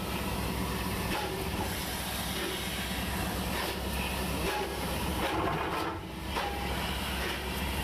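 A railway train running: a steady rumble and hiss with a few separate clicks and knocks.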